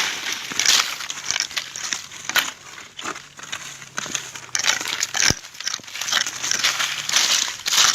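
Dry leaf litter crunching and rustling in irregular bursts as it is scraped aside and turned over, with a sharp crackle about five seconds in.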